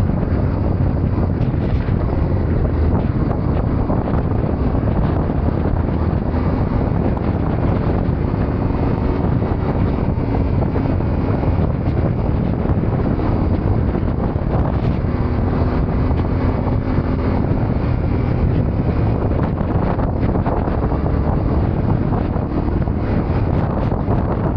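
Wind rushing steadily over the microphone of a moving Yamaha Ténéré 700 motorcycle, with its parallel-twin engine running at a steady pace underneath.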